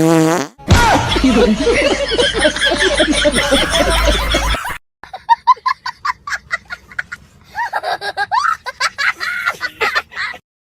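Prank fart-noise sounds: a falling fart tone, then a long, rough sputtering fart, then a string of short staccato puffs.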